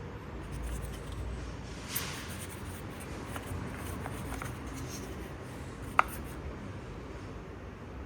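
Scratchy handling of battery charger cables and clamps, with a few small clicks and one sharp click about six seconds in.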